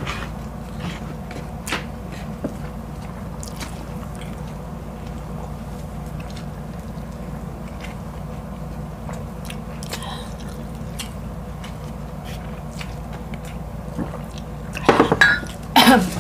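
Close mouth sounds of eating: chewing with scattered soft clicks and smacks over a steady low hum, then a louder burst of sound near the end.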